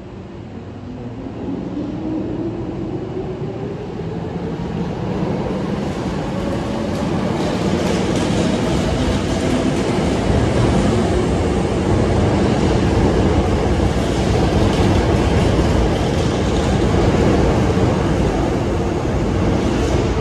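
Hankyu electric train running past, growing louder over the first ten seconds. A whine rises in pitch over the first several seconds and then holds steady over the rumble.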